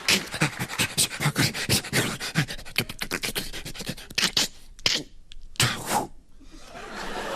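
Sound effects made with the mouth into a microphone: a fast run of sharp clicks and pops, then a few short hissing bursts.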